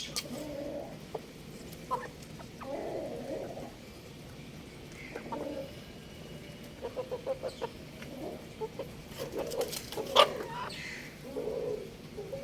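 Young rooster clucking with short low calls, including a quick run of clucks partway through. A sharp tap about ten seconds in is the loudest sound.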